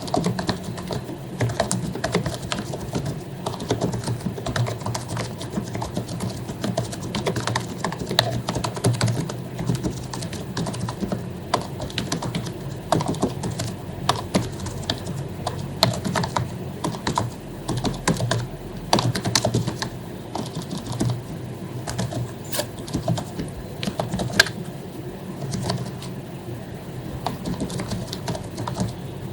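Continuous fast typing on an HP membrane keyboard with lubricated keycaps: a dense, irregular patter of soft key clicks, with a few sharper keystrokes standing out.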